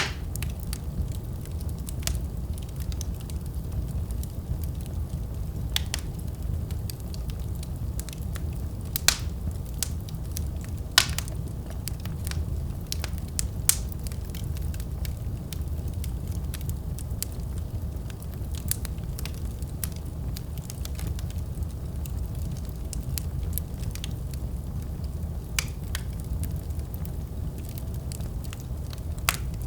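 Wood fire crackling in a fireplace: a steady low rumble of the flames with irregular sharp pops and snaps, a few of them louder.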